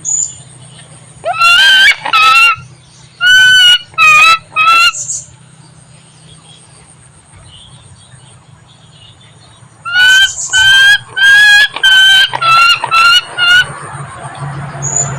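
Hornbill giving loud honking calls in two bouts: about five calls in the first five seconds, then a quicker run of about eight calls after a pause.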